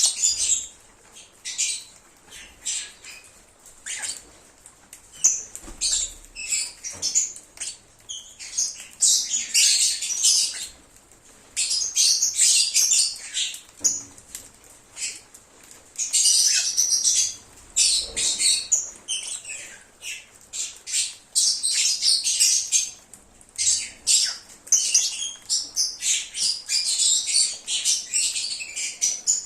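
Lovebirds chirping and squawking: rapid high-pitched calls in busy bursts with brief pauses.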